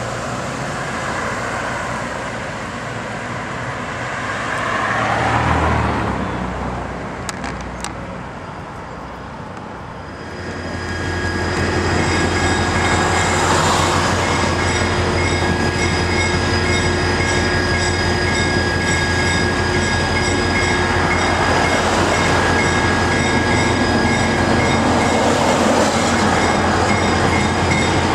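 A passenger train rolling past for the first ten seconds or so. Then, from about ten seconds in, the diesel locomotive runs by close up: a steady low engine drone with steady high whines over it.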